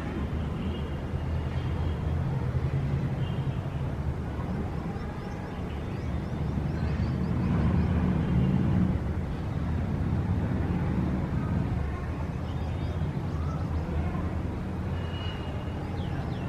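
Outdoor city ambience: a steady rumble of road traffic that swells about halfway through, with faint bird chirps above it.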